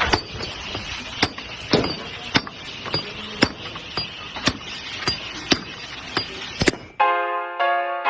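Sharp knocks repeating evenly about twice a second over a steady noise, then keyboard music starts about seven seconds in.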